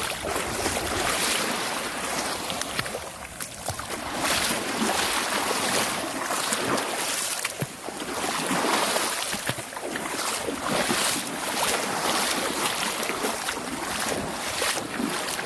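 Shallow seawater lapping and sloshing, rising and falling every couple of seconds.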